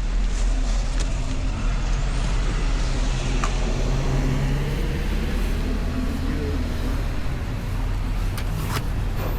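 Dual-sport motorcycle engine running steadily, with a couple of short sharp clicks.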